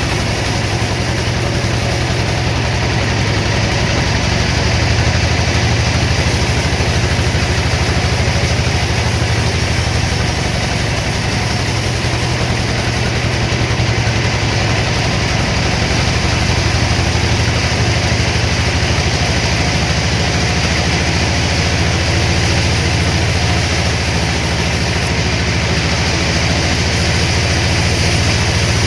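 Sawmill machinery running steadily with an even, low engine-like drone.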